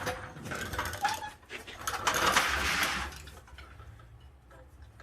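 Mechanical clicking and rattling from hands-on work on a car, loudest about two to three seconds in, then dying down.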